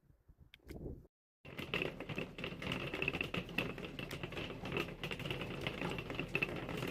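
Hail pelting down, a dense, rapid patter of sharp ticks that starts suddenly about a second and a half in, after a moment of silence.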